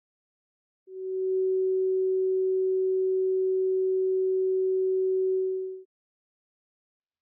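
A single pure, steady electronic tone of middling-low pitch, a plain sine-wave sound effect. It fades in about a second in, holds level for about five seconds and fades out.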